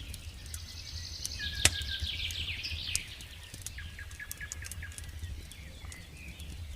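Campfire crackling with scattered sharp pops, one louder pop about a second and a half in. Over it a songbird sings a fast trilling phrase for the first three seconds, followed by a few short chirps, above a steady low rumble.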